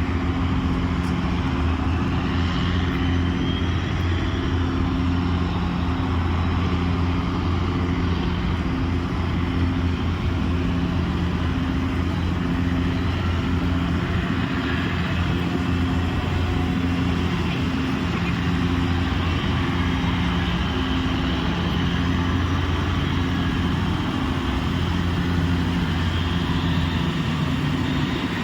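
Boeing 929 Jetfoil's gas turbine engine starting up: a steady low mechanical drone with a regular throb, overlaid by faint high whines rising in pitch.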